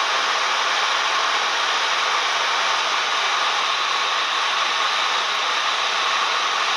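Cessna 172M cabin noise: the engine and propeller running with airflow, heard as a steady, even rushing noise that does not change.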